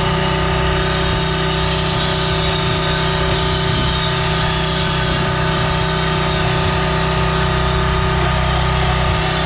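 Pressure washer running steadily, driving a wet sandblaster kit, with a steady motor tone under the hiss of the water-and-sand spray.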